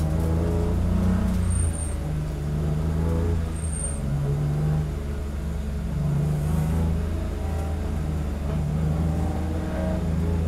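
BMW E46 M3 race car's S54 3.2-litre straight-six heard from inside the cockpit, running at low revs in a slow-moving pack, its note rising and falling a little with the throttle. Two brief high-pitched chirps come about two seconds apart early in the sound.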